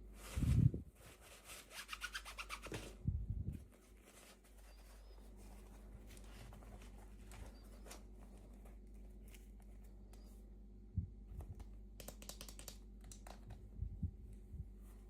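Hands unboxing toy packaging: crinkling and rustling in the first few seconds and again near the end, with a few soft bumps as the pieces are handled.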